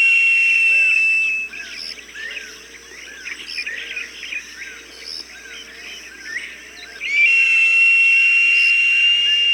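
A hawk's long, high, drawn-out scream, heard twice: one call ends about a second and a half in and another starts about seven seconds in. Small birds chirp steadily between the screams.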